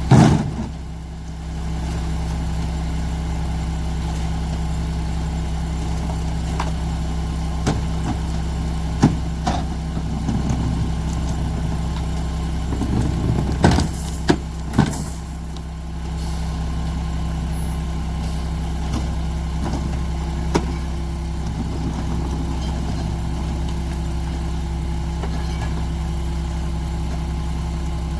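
Mack MR garbage truck's diesel engine idling steadily, with scattered sharp bangs and knocks: a loud one at the start, a cluster of them about halfway through, and a few single knocks between.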